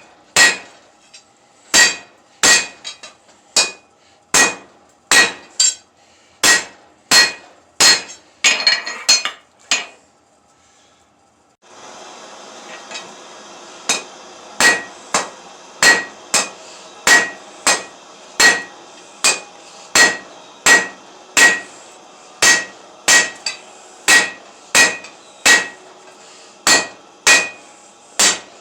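Hand hammer forging steel on an anvil: regular strikes, one to two a second, each with a bright ring. The strikes stop for about two seconds some ten seconds in, then go on over a steady hiss.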